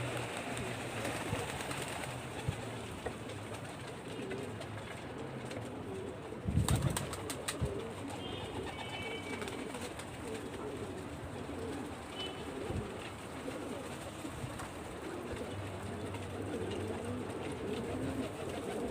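Domestic pigeons cooing, many low warbling coos overlapping, with a brief clatter of sharp clicks about six and a half seconds in.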